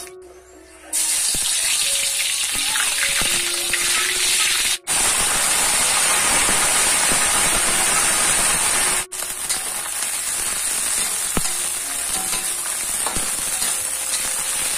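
Food sizzling as it fries in a hot pan, a dense steady hiss that cuts out sharply twice, a little after a third of the way in and again past halfway.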